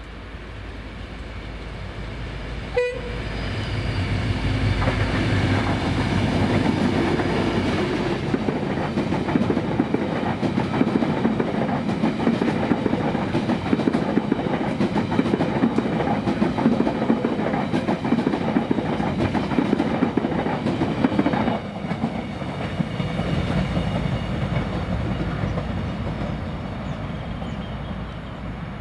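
An Irish Rail 071 class EMD diesel locomotive (12-cylinder two-stroke) passes at speed hauling a long continuous welded rail train. A short horn toot comes about three seconds in, then the diesel engine passes with a deep rumble. A long run of flat wagons follows, their wheels clattering over the rail joints; the sound drops suddenly about three quarters of the way through and fades as the train recedes.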